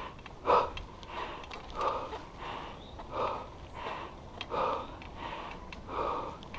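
A cyclist breathing hard and fast, a heavy breath about every two-thirds of a second, out of breath after a climb.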